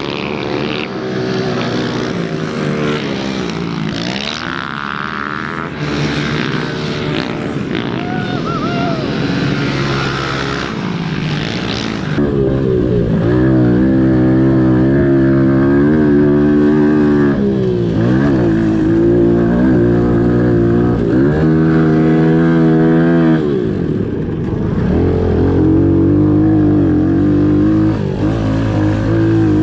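Pit bike engines revving up and down over and over as the bikes ride, with the pitch rising and falling through the gears. The sound changes abruptly about twelve seconds in.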